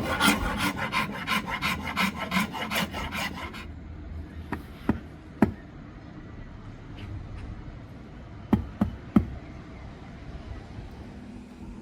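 An abrasive hand tool stroking back and forth on hardwood, about three rapid scraping strokes a second, stops a few seconds in. After that come a few sharp knocks, with a pair and then a quick triple.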